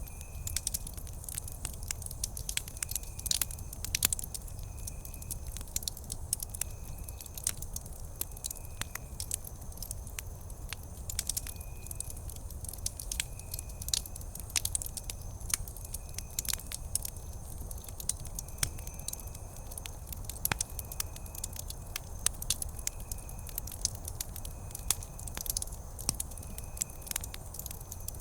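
Wood fire burning with irregular sharp crackles and pops over a low steady rumble. A faint short high note repeats about every second and a half.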